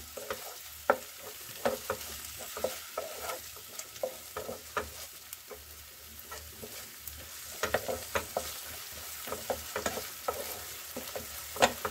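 Grated onion and ginger-garlic paste sizzling in hot oil in a nonstick kadhai, with a steady frying hiss. A spatula scrapes and knocks against the pan at irregular moments as it stirs.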